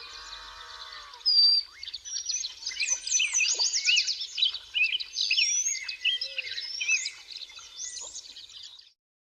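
A birdsong phone tone from Infinix's XOS 14 firmware: a recorded chorus of several birds chirping and trilling quickly and overlapping, which cuts off suddenly near the end.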